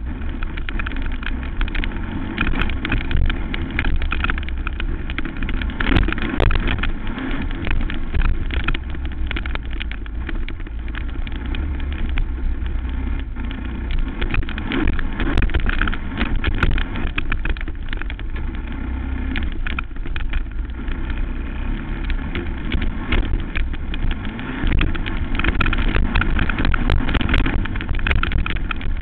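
Racing quad (ATV) engine on a motocross track, revving up and down continuously through acceleration and throttle changes, with a rumbling low end.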